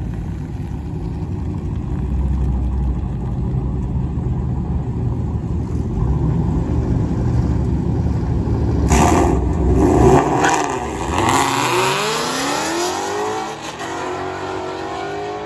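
A Dodge Challenger and a Ford Mustang rumbling low at the drag strip start line, then launching about nine seconds in with a loud burst of engine noise. Their engines then rise steadily in pitch as they accelerate away down the track, dropping once for a gear change near the end.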